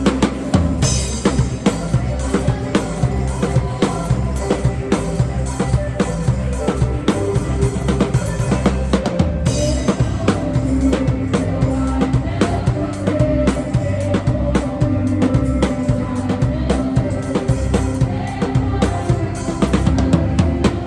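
Acoustic drum kit played to a worship song, picked up by a phone's microphone in the room: a steady beat of kick drum, snare and cymbals over the song's backing music.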